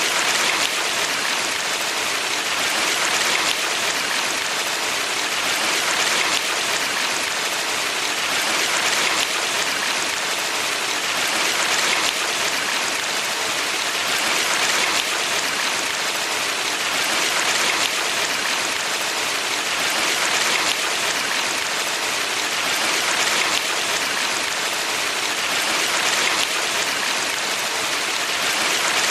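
Steady rushing and splashing of a valley stream, an even water noise that swells gently about every three seconds.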